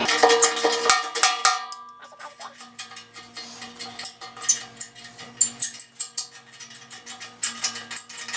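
Socket wrench working a horn mounting bolt loose, a run of sharp metallic clicks and clinks of steel on steel. A dense, ringing clatter in the first couple of seconds, then sparser, irregular clicks.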